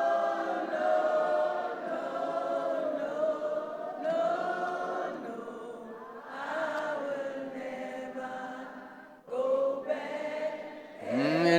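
A congregation sings a slow worship refrain together, holding long notes in phrases with short breaks between lines.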